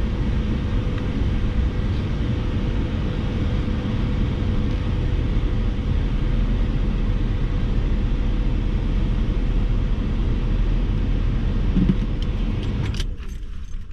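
Steady running of a 1979 Lincoln Continental Town Car's V8 at low speed, heard inside the cabin with the air conditioning blowing, until the engine is switched off about thirteen seconds in and the sound drops away.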